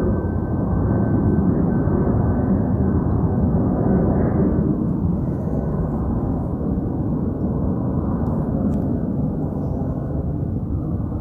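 Jet airliner passing close by, a loud, low rumble of engine noise that slowly fades, with a faint high whine in the first few seconds.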